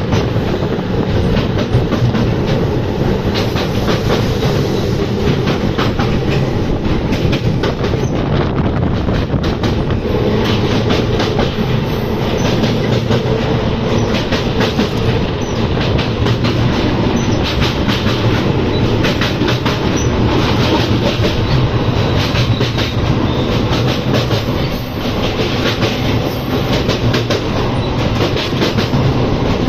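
Passenger train running across a steel bridge, heard from on board: a loud, steady rumble of wheels on rails with a constant run of clicks and clatter.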